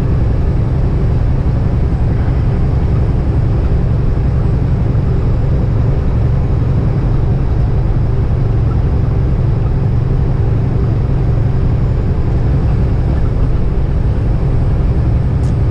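Kenworth semi-truck cruising at highway speed, heard inside the cab: a steady low engine and road drone that holds even throughout.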